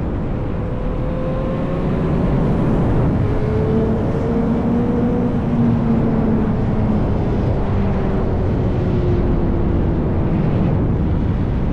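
Yamaha R1's inline-four engine through an SC-Project exhaust, running at a steady cruise under heavy wind and road rush. The engine note climbs a little about three seconds in, then slowly eases off.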